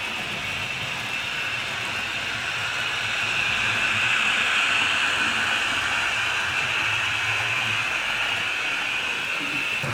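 HO-scale model train running along the track, a steady whirring rush of motor and wheels that swells to its loudest about four to five seconds in and then eases off.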